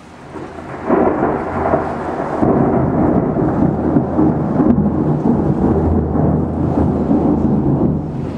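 Thunder: a loud clap about a second in, then a long rumble that carries on for several seconds and eases off near the end.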